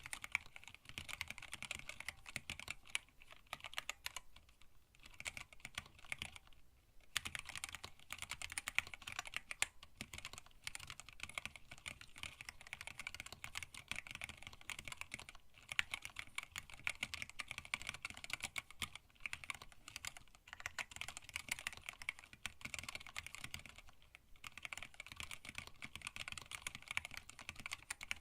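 Fast, continuous typing on a hand-wired split mechanical keyboard with an acrylic case and plate, Tealios linear switches and blank PBT keycaps, with a few short pauses between bursts.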